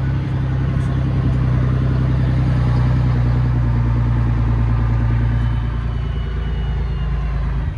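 Camper vehicle's engine running steadily at low speed, easing off right at the end.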